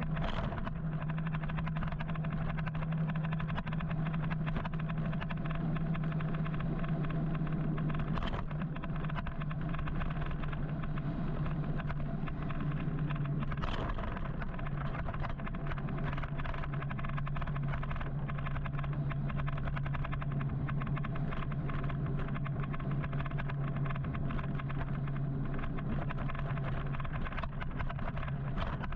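City traffic noise heard from a moving electric motorcycle: a steady low hum over a constant road rush, broken by a few short sharp sounds about 8 and 14 seconds in.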